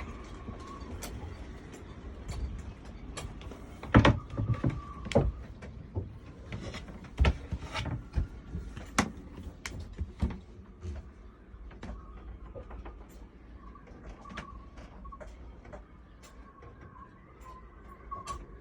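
Irregular knocks and clicks, loudest and densest a few seconds in, over a steady low rumble of wind, with a faint wavering high whistle; a sailboat's fittings and rigging working in the wind.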